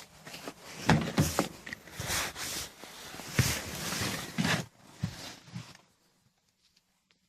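Footsteps crunching through snow, mixed with a few heavier thumps, stopping abruptly about six seconds in.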